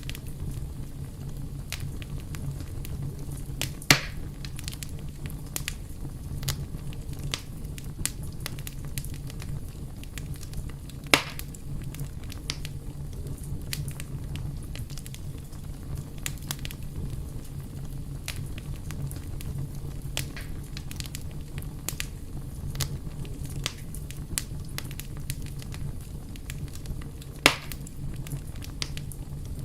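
Wood fire burning, with steady crackling and three louder pops spread through it, under a low steady rumble.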